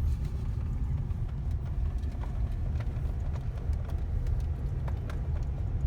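Steady low road rumble of a truck driving, heard from inside the cab, with a few light clicks.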